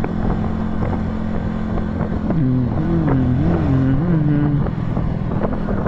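Honda motorcycle engine running under way with wind rushing past; about two seconds in the engine speed swings up and down a few times, then it settles back to a steady run.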